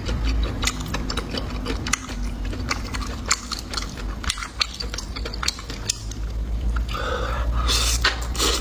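Close-miked chewing and biting of lamb sausage, with many short wet mouth clicks and smacks. The mouth noise grows louder and denser about seven seconds in.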